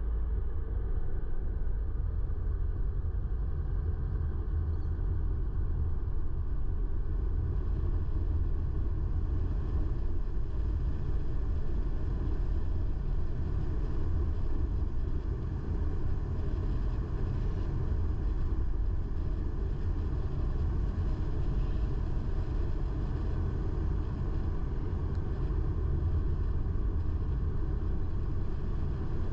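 A car driving along a road: a steady low rumble of tyres and engine, with no change in pace.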